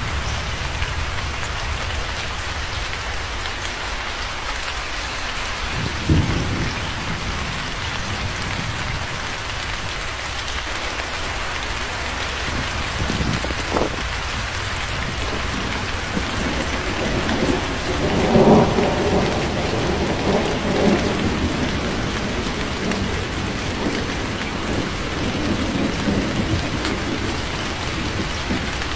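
Steady heavy rain falling on a surface, with thunder. There is a sharp crack about six seconds in and a brief one near the middle, then a longer rolling rumble that builds and fades over several seconds in the second half.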